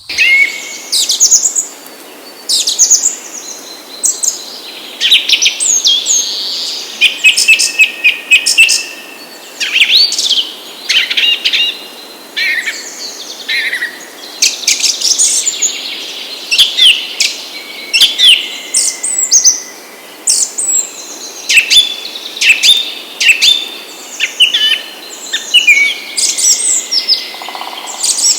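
Birds chirping and singing in quick, overlapping calls, with a faint steady high tone underneath.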